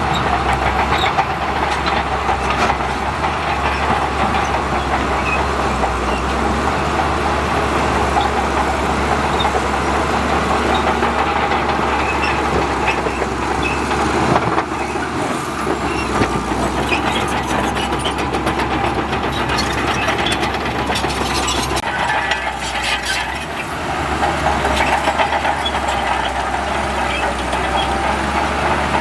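Heavy diesel earthmoving machinery running steadily, with a cluster of metallic clanks and rattles about three-quarters of the way through.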